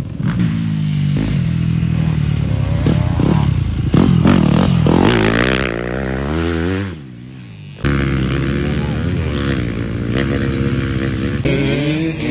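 Yamaha motocross bike engine revving hard, its pitch climbing and falling repeatedly as the rider works the throttle through the gears. It drops away briefly about seven seconds in, then picks up again.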